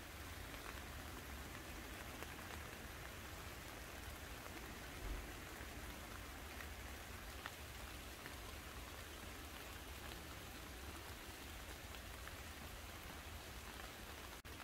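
Steady rain falling on garden plants, with scattered drops ticking on leaves and a soft low rumble underneath; a brief low bump comes about five seconds in.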